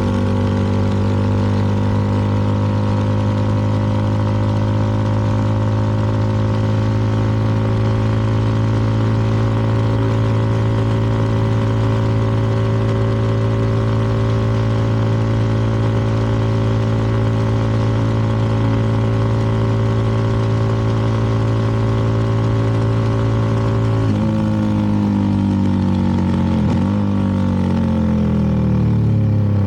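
CFMoto 300NK motorcycle's single-cylinder engine running at a steady cruise, its note holding one pitch. Near the end the note shifts and drops as the bike slows off the throttle.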